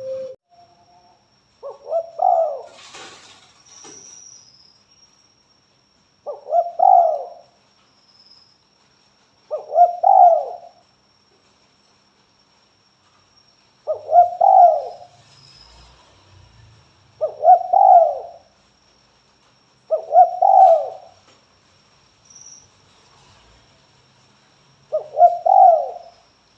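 Spotted dove (tekukur) giving its cooing call: seven repeated phrases, each about a second long, spaced three to four seconds apart.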